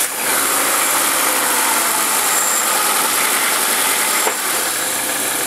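1992 Acura Vigor's 2.5-litre inline-five engine idling steadily, just after being started.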